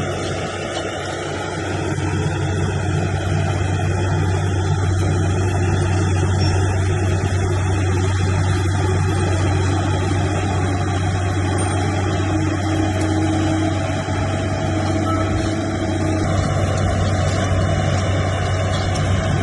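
Diesel engine of heavy earthmoving machinery running steadily with a constant low hum.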